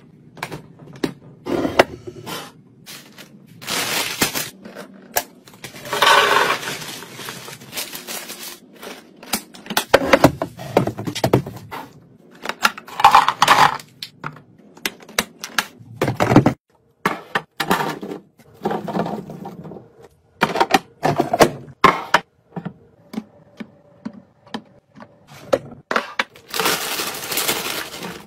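Food items and containers being handled while restocking a kitchen: many irregular clicks and knocks as things are set down and moved, with several longer noisy stretches of about a second.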